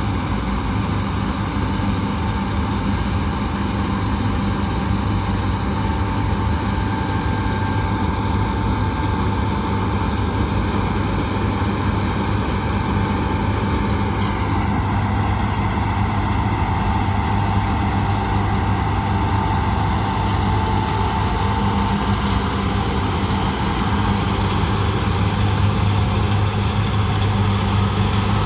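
A John Deere harvest machine's diesel engine running steadily, with a deep hum and a thin steady whine above it that fades out in the second half.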